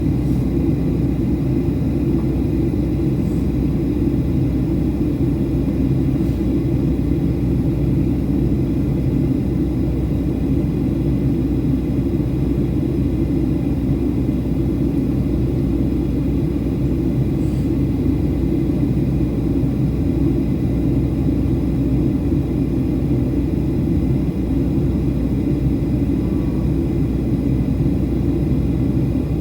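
Steady in-flight noise of a Boeing 737-800 heard from on board during descent: a low rumble of airflow and CFM56 engines, with faint steady tones above it.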